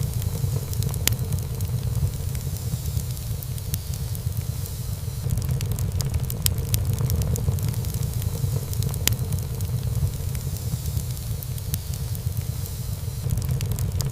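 Wood fire burning in a fireplace: a steady low flame noise with frequent sharp crackles and pops of burning wood, one pop standing out about nine seconds in.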